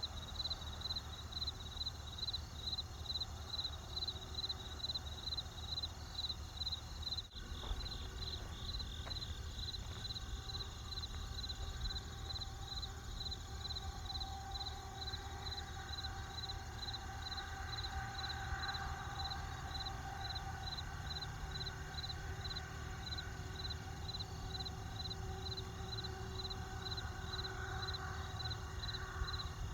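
Crickets chirping in an even rhythm, about two and a half chirps a second, over the low steady rumble of a campfire, with a brief dropout about seven seconds in.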